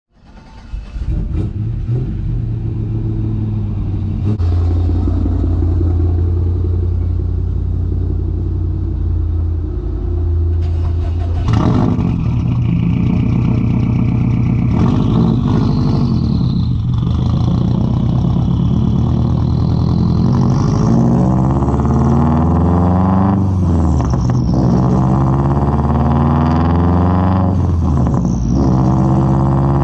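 2003 Subaru WRX's turbocharged flat-four through a Tomei straight-pipe exhaust. It runs steadily for about the first ten seconds, then from about eleven seconds in it revs up and down repeatedly, its pitch rising and falling as it pulls through the gears.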